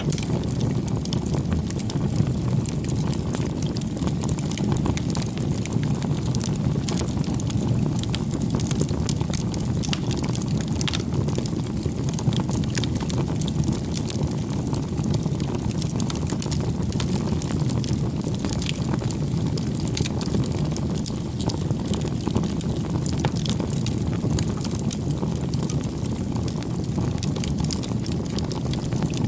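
Wood campfire burning: a steady low rush of flame with frequent small crackles and pops.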